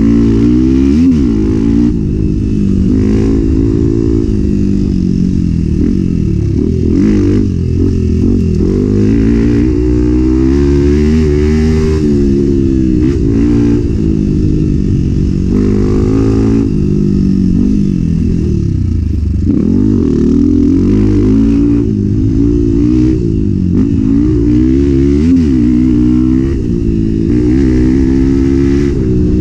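Enduro motorcycle engine revving up and falling back again and again through the gears, never settling at a steady pitch.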